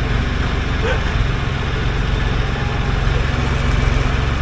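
Backhoe's diesel engine running steadily with a low, even throb.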